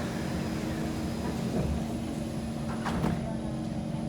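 Inside a Kawasaki C151 MRT train as its doors finish closing: a steady hum from the train's equipment, with a sharp knock about three seconds in.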